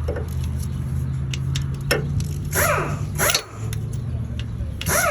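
A dog barks about three times, short arched calls, over a steady low hum. A few light clicks come before the barks.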